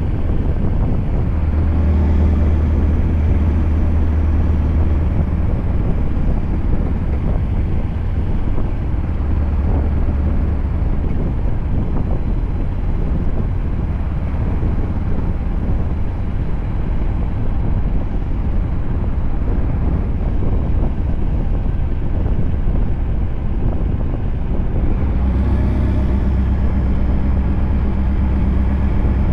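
Scania V8 truck engine running under way: a steady deep drone with road and wind noise. The low drone swells about two seconds in, again around ten seconds, and near the end, with a faint high whistle as it swells at the start and at the end.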